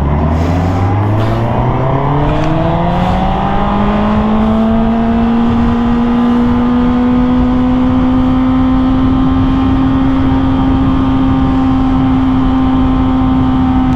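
Motorcycle engine pulling up through the revs over the first four seconds or so, then holding a steady pitch at cruising speed, with a constant rush of wind and road noise beneath.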